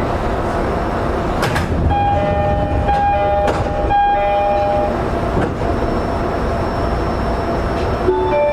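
Running noise inside the motor car of a JR East E231-0 series commuter train at speed: a steady loud rumble of motors and wheels on rail, with a couple of sharp knocks. About two seconds in, a brief ringing of two alternating tones is heard, then fades.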